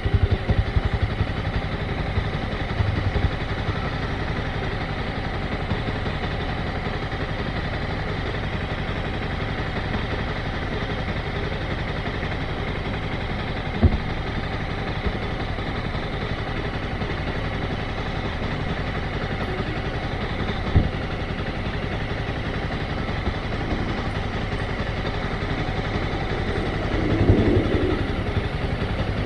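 Motorcycle engine running steadily at low, even revs, close to the microphone. Two short sharp clicks come through about halfway and again about two-thirds in, and the sound swells briefly near the end.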